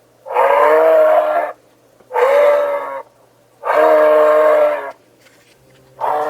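An animal calling: three drawn-out pitched calls of about a second each, with a fourth starting near the end.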